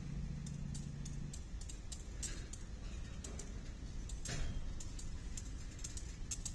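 Slow-moving freight train in a rail yard: a low rumble with scattered, irregular clicks of steel wheels over rail joints.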